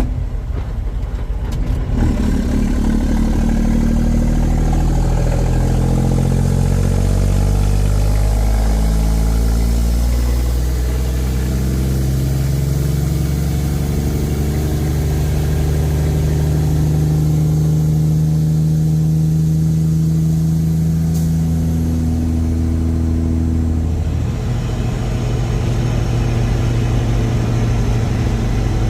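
Semi-truck diesel engine pulling through the gears: the engine note jumps about two seconds in, climbs in steps as the truck gathers speed, holds a steady drone while cruising, then falls off near the end as the driver eases off.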